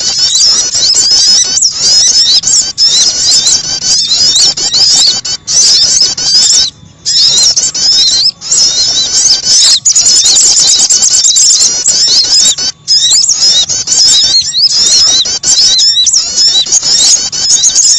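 Bird-lure recording of small songbirds, sogon and prenjak, chirping densely and rapidly in high, sweeping notes, layered so the calls run almost without a break, with only a few short pauses.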